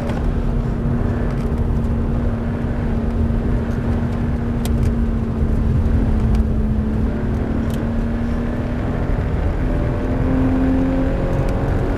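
Toyota 86's 2.0-litre flat-four engine running at track speed, heard from inside the cabin, over road noise from tyres on a wet track. The engine holds a steady note and steps up briefly about ten seconds in.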